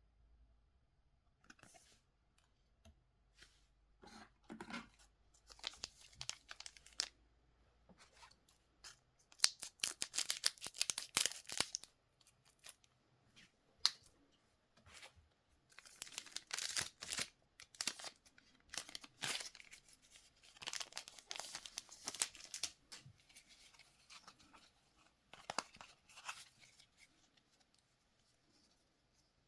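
Trading-card pack wrappers being torn open and crinkled, in irregular bursts of ripping and crackling with short pauses between.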